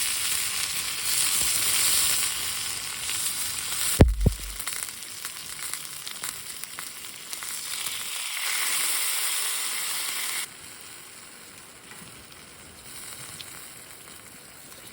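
Food sizzling in a hot frying pan, a dense hiss with one knock about four seconds in; the sizzling drops away abruptly about two-thirds of the way through.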